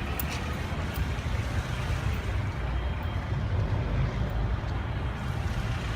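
Steady low rumble of a car driving slowly, engine and road noise.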